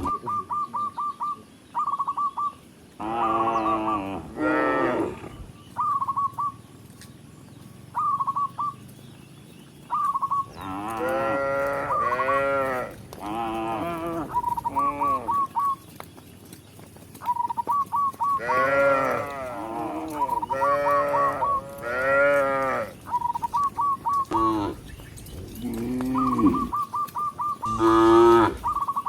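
Cows mooing over and over, many short and longer moos that bend up and down in pitch, some overlapping as if from more than one animal. Between the moos a quick high trill of short pips comes again and again.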